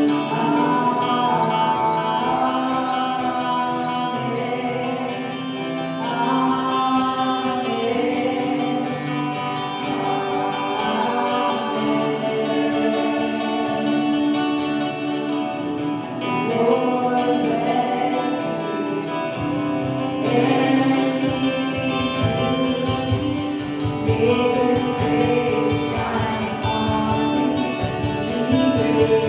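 Gospel worship song: voices singing over guitar, with a low bass beat joining about two-thirds of the way in.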